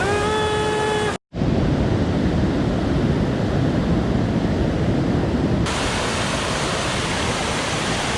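Rushing water of a mountain stream, a steady hiss that breaks off for an instant about a second in. A short held voice sounds over the water at the start.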